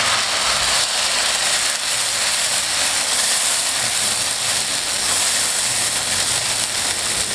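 Blended green herb paste sizzling steadily in hot oil with fried onion and garlic in a non-stick kadai as it is stirred with a silicone spatula: the water in the freshly added paste is boiling off in the oil.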